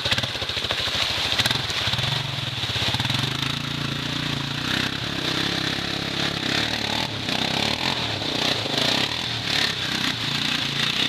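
ATV engine running and revving, its pitch rising over the first few seconds and then wavering, under a steady hiss.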